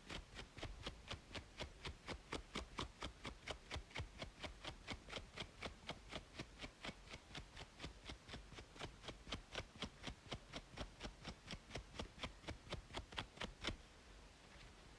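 Rhythmic scratching on a braided scalp, about four quick strokes a second, which stops near the end.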